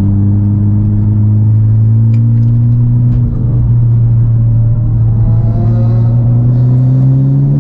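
Honda Civic Type R's turbocharged 2.0-litre four-cylinder pulling steadily under throttle, heard from inside the cabin: a low engine drone that rises slowly in pitch, breaks briefly about three seconds in, then climbs again.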